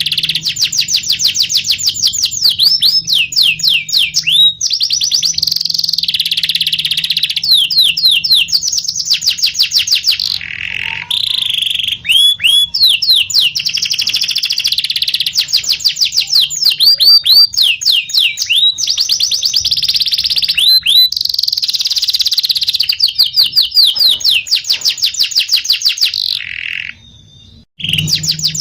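Canary singing a long, loud song of fast rolling trills and quick repeated downward-sweeping notes, phrase after phrase, with a brief pause near the end.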